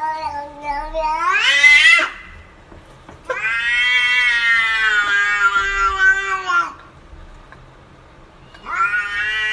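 A cat meowing in long, drawn-out yowls: a first call rising in pitch, then a long call of about three seconds, and another starting near the end.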